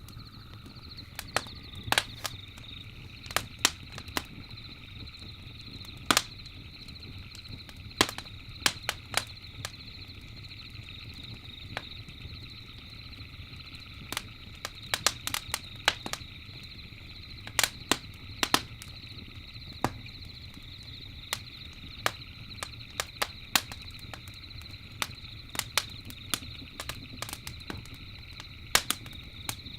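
Campfire crackling, with sharp wood pops at irregular intervals, several in quick clusters, over a low steady fire rumble. A steady, high chorus of night insects such as crickets runs beneath it.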